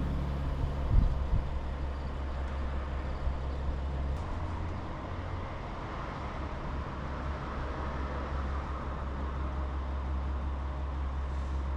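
Steady low rumble of a vehicle running, with an even noise over it and a short knock about a second in.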